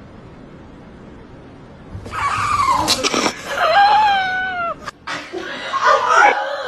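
A pet animal's drawn-out, howl-like vocal call with a wavering, falling pitch, starting about two seconds in and lasting nearly three seconds. A shorter, rougher call follows near the end.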